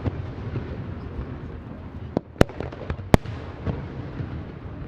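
Aerial fireworks shells bursting with sharp reports, the two loudest about two and a half and three seconds in, among many smaller pops.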